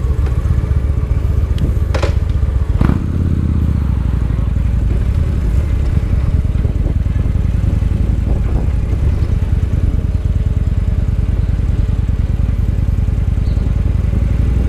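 Victory Highball's V-twin engine running as the motorcycle rides through town, heard from the bike itself, with a couple of sharp clicks about two and three seconds in.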